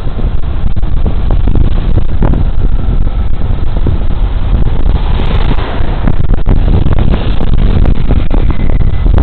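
Wind buffeting the microphone of a body-worn camera on a moving Suzuki Burgman Street 125 scooter: a loud, steady rumble that flutters constantly, with the ride's road noise under it. A brief louder rush swells about five seconds in.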